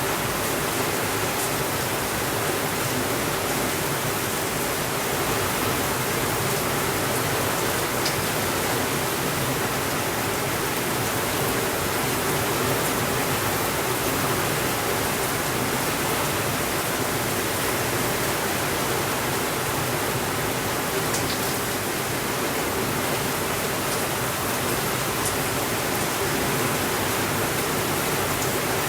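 Steady, even rainfall, with a few faint single clicks here and there.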